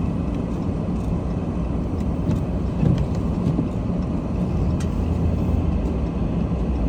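Car driving on a snowy road, heard from inside the cabin: a steady low rumble of engine and tyre noise.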